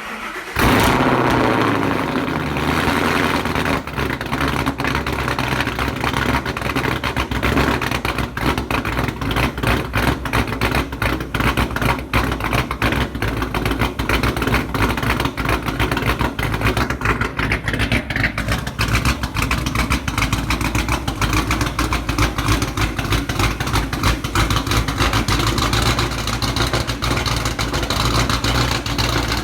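Supercharged 2013 Ford Mustang GT 5.0 Coyote V8 cold-started for the first time after the supercharger install: a brief crank, the engine catches and flares up within the first second, then settles into a loud, steady high idle.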